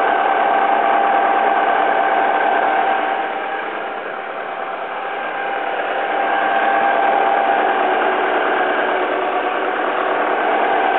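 Alfa Romeo 147 Twin Spark four-cylinder petrol engine idling steadily, heard close up in the engine bay; it dips a little in loudness for a couple of seconds near the middle.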